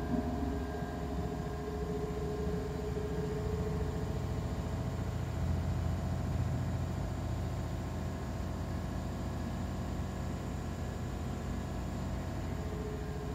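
DB Class 628 diesel railcar heard on board: its underfloor diesel engine running steadily under a low rumble, with the steady whine of its turbocharger on top.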